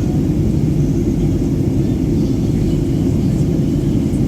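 Steady low cabin rumble of a Boeing 737-800 in descent: its CFM56-7B engines and the airflow over the fuselage, heard from inside the passenger cabin.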